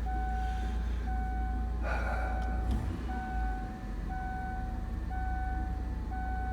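2002 Kia Sedona's V6 engine idling steadily, with a two-tone electronic warning chime beeping about once a second over it. A brief rustling knock about two seconds in.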